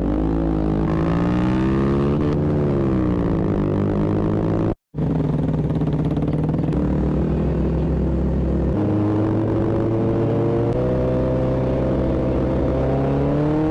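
Small single-cylinder mini motorcycle engine running under way. Its pitch swings up and down with the throttle in the first few seconds, then holds steadier and climbs gradually in small steps. The sound drops out completely for a moment about five seconds in.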